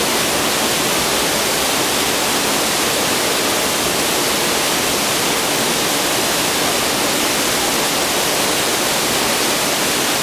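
Waterfall pouring into a pool, a steady, even rush of water.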